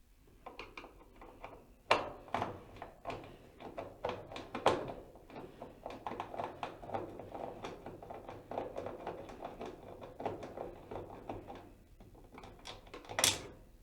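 Phillips screwdriver backing out the two screws that hold a dryer's plastic door switch, a long run of small irregular clicks and scrapes of metal on metal and plastic, with a few sharper knocks.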